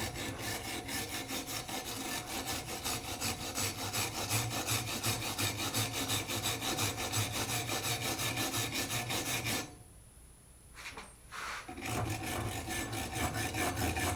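Hand wire brush scrubbing rust off a metal tractor wrench in rapid back-and-forth strokes. The scraping stops for about two seconds near the end, then starts again.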